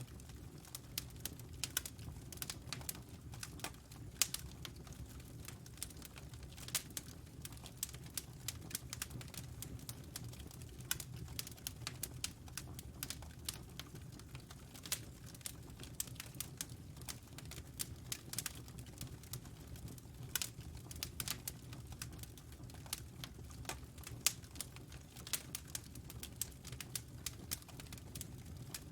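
Wood fire burning in a fireplace, crackling with many irregular sharp pops and snaps over a steady low rumble of flames.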